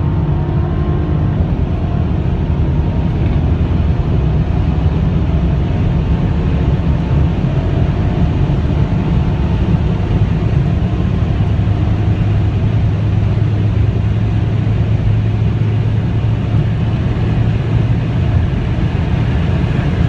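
Tuned Mercedes-AMG CLS 63 twin-turbo V8 car at speed: a loud, steady drone of engine, road and wind noise with little change in pitch.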